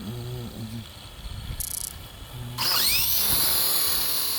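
A small electric motor whirring: faint at first, then about two and a half seconds in a loud hissing whir starts suddenly, its pitch gliding.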